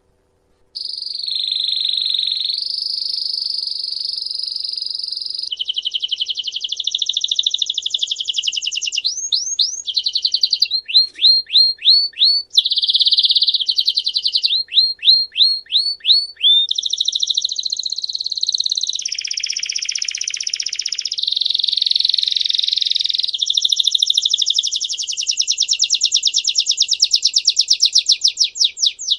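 A songbird singing a long continuous song of rolling trills and runs of sharp, rising repeated notes, starting just under a second in. It is a recorded tutor song of the kind played to caged birds so they learn it.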